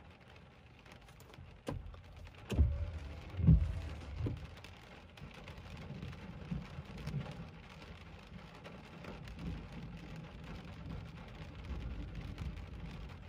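Heavy rain falling on a car's roof and windshield, heard from inside the car, with scattered sharp drop hits. About three seconds in, thunder rumbles low, with two loud swells close together.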